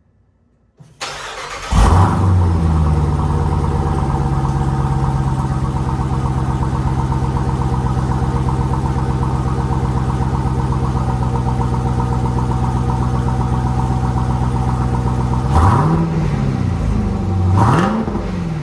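2019 Jeep Trackhawk's supercharged 6.2-litre V8 on a cold start: it cranks for under a second, catches with a flare of revs, and settles into a steady idle. Near the end the throttle is blipped twice, the revs rising and falling each time.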